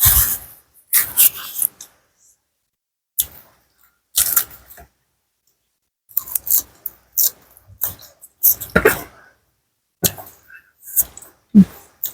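A person eating close to the microphone: wet chewing and crunching of food in short, irregular bursts with silent gaps between them.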